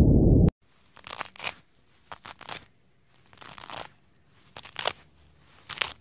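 A low rumble cuts off suddenly about half a second in. After it, a rabbit chews and tears at carrot greens: quiet crunchy, crinkling munches come in short clusters about once a second.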